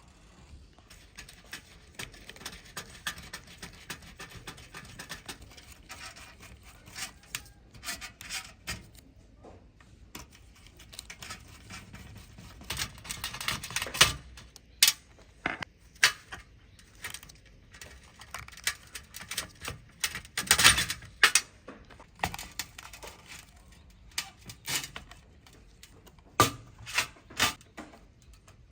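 Workshop handling sounds: irregular clicks, knocks and clatter of tools and small parts, with a few short bursts of scraping or rubbing.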